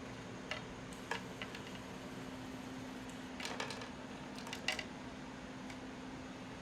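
Scattered light clicks and taps, some in quick little clusters, over a steady low hum in a small room.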